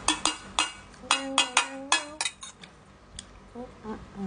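A spoon clinking and tapping against an empty bowl: a quick run of about a dozen sharp clinks, some ringing on briefly, over the first two and a half seconds, then it stops.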